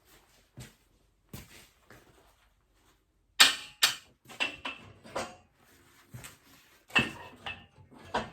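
Irregular knocks and clanks of metal parts being handled, a few of them leaving a short metallic ring, loudest about three and a half seconds in and again about seven seconds in.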